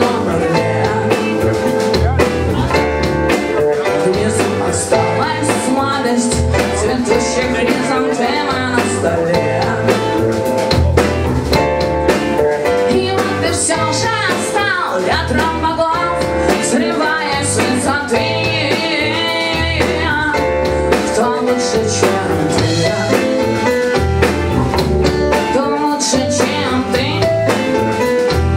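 Rock band playing an instrumental break: a guitar lead with bending notes over bass and drums.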